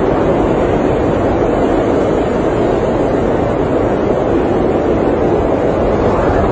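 Blizzard wind heard from inside an RV: a loud, steady, dull rushing with little high end and no breaks.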